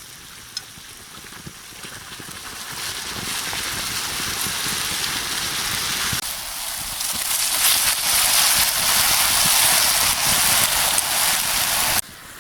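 Hot oil sizzling as food deep-fries: a dense, crackling hiss that grows louder. It dips about six seconds in, comes back louder, and cuts off suddenly near the end.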